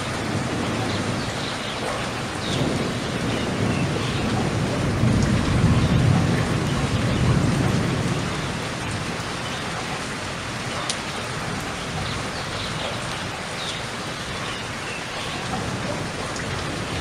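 Steady rain falling, with a low rumble that swells and fades over several seconds in the first half, and an occasional sharp drip.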